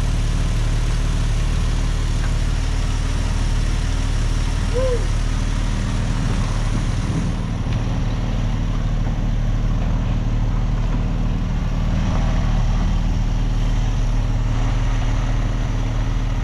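The pickup's Hemi engine running steadily at low revs.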